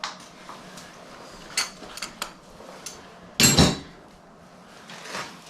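Metal clinks and knocks from tools and parts being handled, with one louder clatter about three and a half seconds in.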